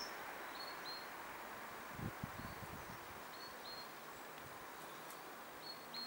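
Small songbird calling: short high notes, mostly in pairs, repeated about four times, over a steady hiss of outdoor background noise. A few soft low thumps come about two seconds in.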